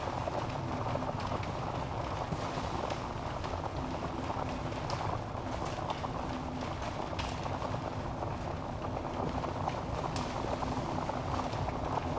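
Log fire burning in a fireplace: a steady, dense crackle of burning wood with a few sharper pops scattered through.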